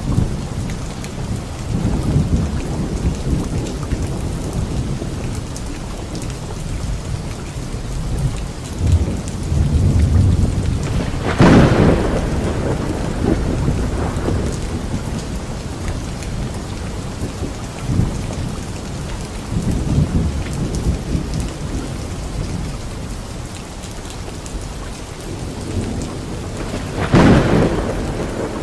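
Steady rain falling during a thunderstorm, with thunder rumbling low and rolling. Two sharp, loud thunderclaps stand out, one about midway through and one near the end.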